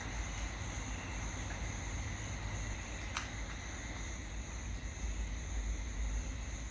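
Steady high-pitched insect drone over a low rumble, with one sharp click about three seconds in.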